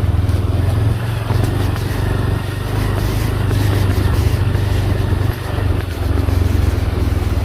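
A motor vehicle running steadily, with a constant low rumble under a wash of road noise.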